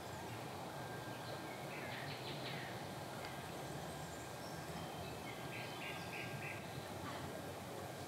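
Outdoor ambience of faint bird calls over a steady low hiss: a short cluster of calls about two seconds in and a quick run of about five chirps near six seconds.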